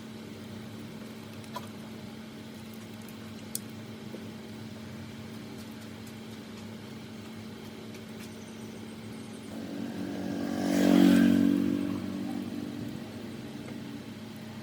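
A steady low hum, with a motor vehicle passing by about ten seconds in: its engine sound swells, peaks and fades over some three seconds.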